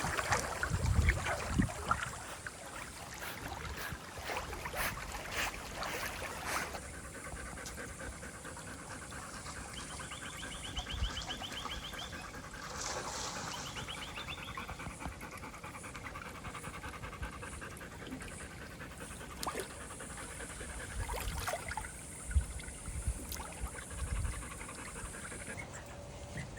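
A dog panting after a swim, with water splashing and dribbling during the first several seconds.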